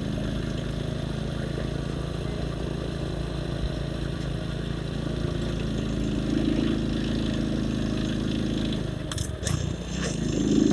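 Motorcycle engine running while riding, getting louder about six seconds in, easing off briefly near the end and then picking up again.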